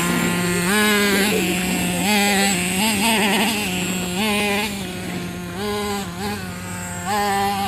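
Traxxas R/C truck's motor running, revving up in short bursts about five times, its pitch rising with each burst and dropping back.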